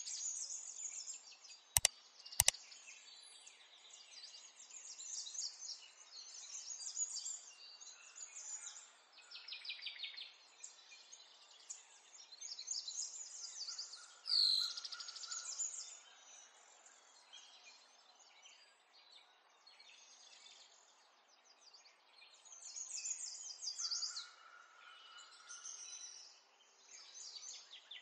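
Small birds chirping and twittering over and over in quick trills, with a loud falling chirp about halfway through. Two sharp clicks sound about two seconds in.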